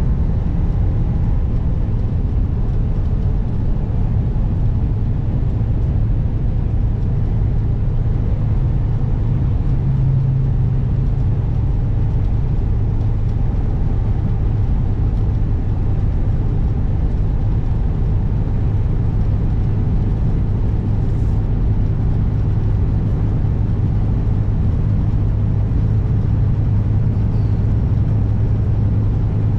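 A 2021 Kenworth W900 semi truck running down the road: a steady low diesel engine drone with road and wind noise, the pitch of the drone dropping slightly about ten seconds in.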